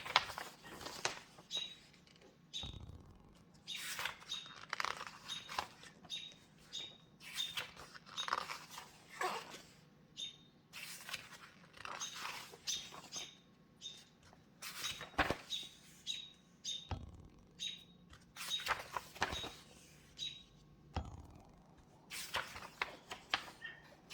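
Paper pages of a book being turned and handled, rustling in a string of short swishes about one every second or so.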